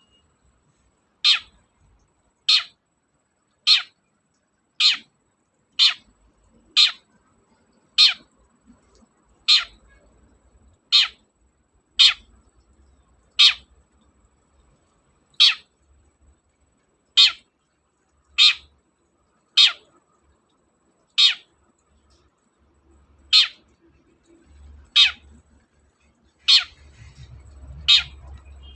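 Long-tailed shrike (cendet) repeating a single short, sharp call about twenty times, one every one to two seconds: a lure call played to provoke a silent shrike into calling back.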